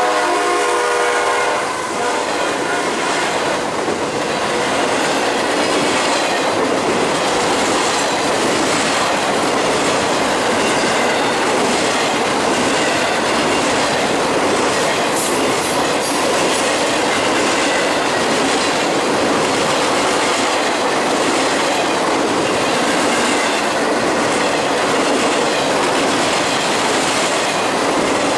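Freight locomotive horn sounding as the locomotives pass close by, cutting off about a second and a half in. Then the loud, steady rumble and clickety-clack of loaded freight cars rolling past, with a brief high screech about halfway through.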